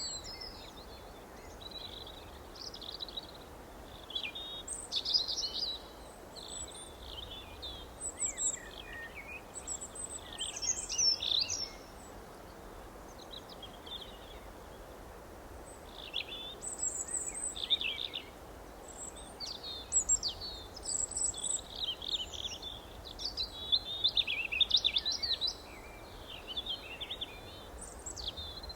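Songbirds chirping and singing in short, quick phrases, with a lull of a few seconds midway and the busiest chirping later on. A faint steady background noise runs underneath.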